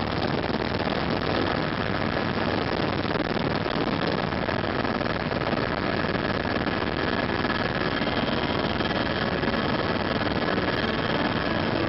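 Steady drone of a tour helicopter's engine and rotors heard from inside the cabin, an even roar with a faint steady whine on top.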